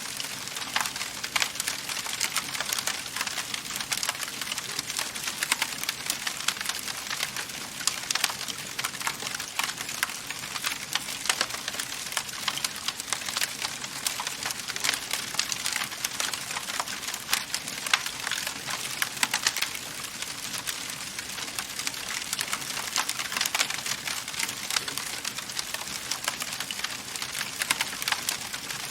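Wood fire crackling and popping steadily in a fireplace: many small sharp pops over a soft hiss.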